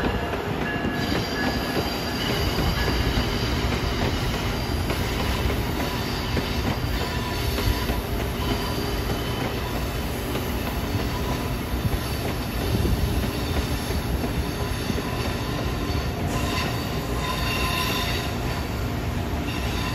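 Amtrak Acela Express trainset rolling past on curved track: a steady rumble of wheels on rail with high-pitched wheel squeal that comes and goes, loudest a few seconds before the end.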